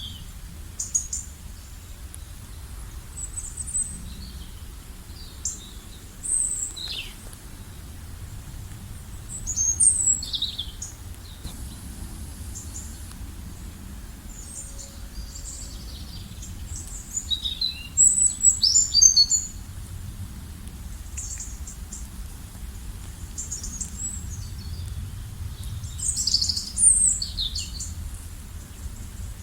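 Songbirds chirping and singing in short, high, quick phrases scattered throughout, busiest in two flurries about halfway and near the end, over a steady low outdoor rumble.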